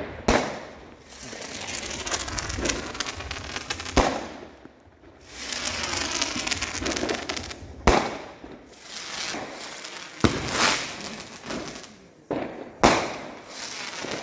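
Fireworks going off: several sharp bangs a few seconds apart, with long stretches of crackling between them.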